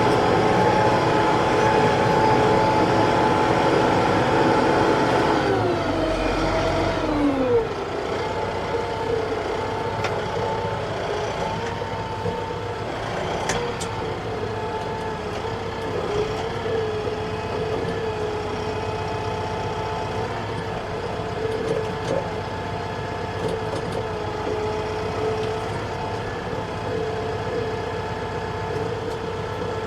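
TYM T654 tractor's diesel engine running at high revs, throttled down about six seconds in, then running steadily at lower revs.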